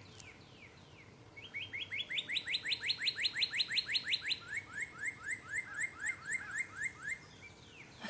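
Northern cardinal singing: after a few faint falling notes, a fast run of rising whistled notes, about seven a second, then a second, lower run of slurred notes that stops a second before the end.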